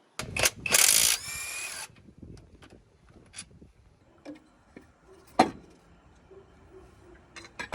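A power tool runs in a short harsh burst, then a weaker stretch with a rising whine, as a bolt is undone. Scattered clicks and clinks of tools and metal parts follow, with one sharp clink near the middle.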